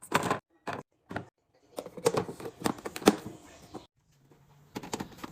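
Plastic containers and packaging handled and set down while restocking a fridge: a run of short clicks and knocks, with a longer stretch of rustling and clattering about two seconds in.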